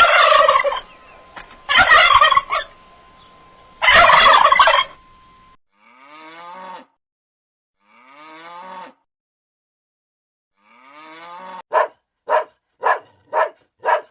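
Turkey gobbling three times in quick rattling bursts, followed by other bird calls: three fainter drawn-out calls, then five short sharp calls in quick succession near the end.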